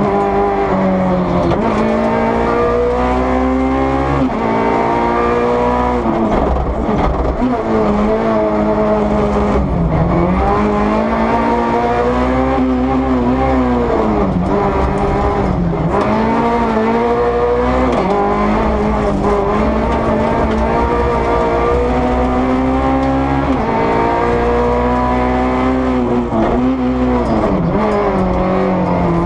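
Peugeot 208 R2 rally car's naturally aspirated 1.6-litre four-cylinder engine, heard from inside the cabin, revving hard through the gears at racing pace. Its note climbs and drops again and again as the driver shifts up and down.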